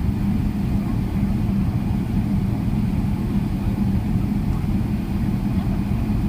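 Steady low rumble of a Boeing 777-300ER's GE90 turbofan engines heard inside the passenger cabin.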